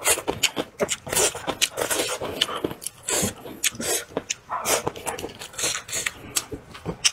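Close-up chewing and lip-smacking of a person eating braised fish and noodles, a quick irregular run of wet mouth clicks and smacks.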